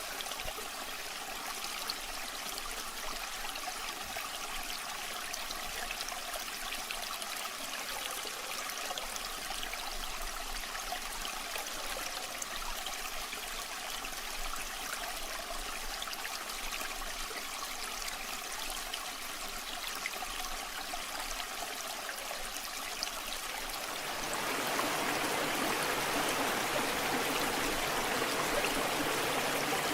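Waterfall water rushing and splashing steadily. About 24 seconds in it becomes louder and fuller, with more low rumble.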